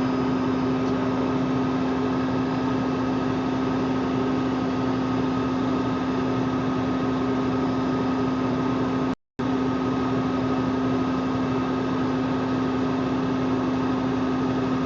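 Steady drone of a semi-truck's diesel engine heard from inside the cab, with a constant hum, while the Jake brake (engine compression brake) holds the loaded truck back on a long downgrade. The sound cuts out completely for a split second about nine seconds in.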